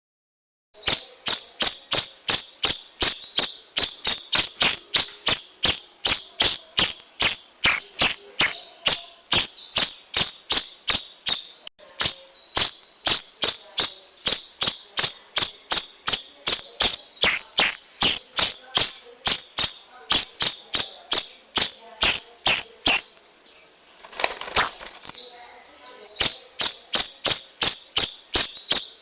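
Cucak rawis songbird singing its rolling 'ngerol' song: a fast, even string of sharp high chirps, about three to four a second, with a short break about 24 seconds in.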